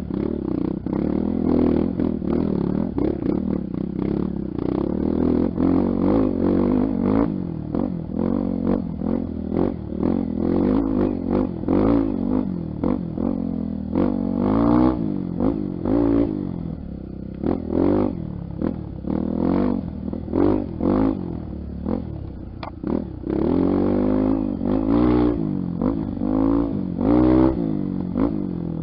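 Honda XR Tornado's 250 cc single-cylinder four-stroke engine revving up and down while being ridden off-road, with many short knocks and rattles over it.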